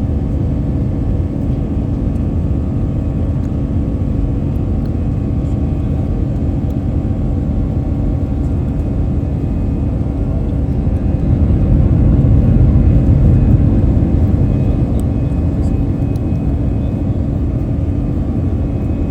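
Airliner cabin noise: a steady low rumble of engines and airflow with a faint steady hum above it, growing somewhat louder for a few seconds around the middle.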